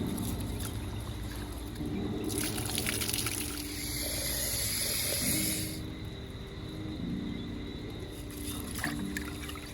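Water pouring or running: a splashing hiss that starts a little over two seconds in and stops after about three and a half seconds.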